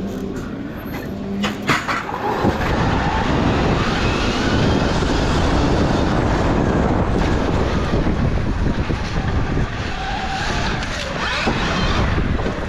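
Pit bike race start: a few sharp clacks, then from about two seconds in a loud, steady rush of wind and motor noise as the bikes race off the line.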